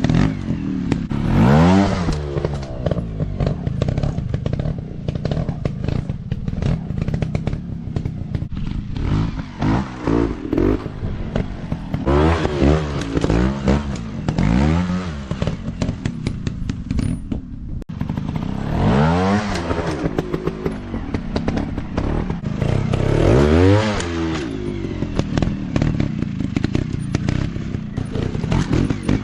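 Dirt bike engines revving hard and dropping back again and again, each throttle burst a rising then falling engine note, with rattling and clatter underneath.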